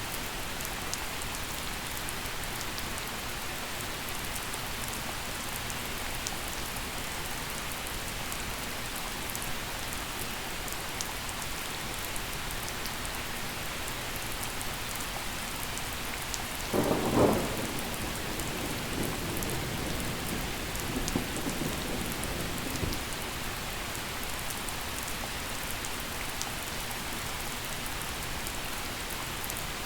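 Steady gentle rain falling with scattered drop ticks. About seventeen seconds in, a sudden crack of thunder rolls into a rumble that fades out after about six seconds.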